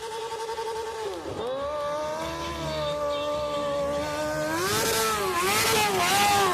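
Motorcycle engine revving hard: held at high revs, dropping sharply about a second in, climbing back and wavering up and down near the end, with a hissing noise rising over it in the last couple of seconds.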